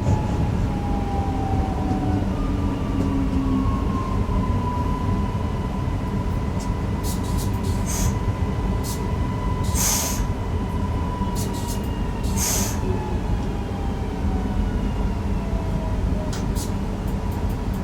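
Newag Impuls EN63 electric multiple unit running, heard from the driver's cab: a steady rumble of wheels and running gear, with a thin electric whine and fainter whines sliding down in pitch. A few sharp clicks come through near the middle.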